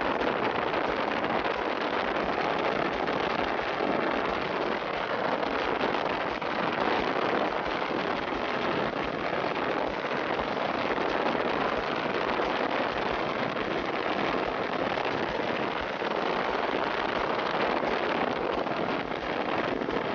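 Steady rushing wind and road noise of a small motorcycle on the move, even in level throughout, with no engine note standing out.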